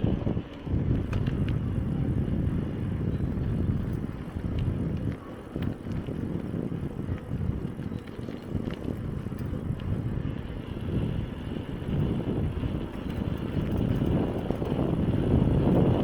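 Bicycle ride heard from a camera on the bike or rider: low wind buffeting on the microphone and the rumble of tyres rolling over a forest track, with a few light rattles and clicks. It grows louder near the end.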